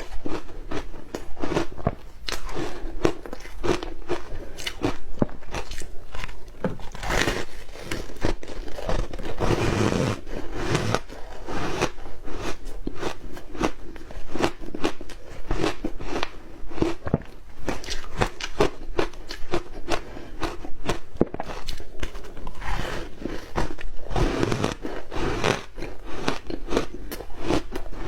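A person biting and chewing hard ice close to the microphone: a continuous run of sharp, crackling crunches.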